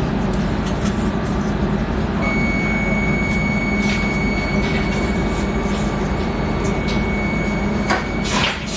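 X10 electric commuter train with a steady low running rumble. A thin, steady high tone starts about two seconds in and stops near the end, followed by short bursts of hiss and a few clicks.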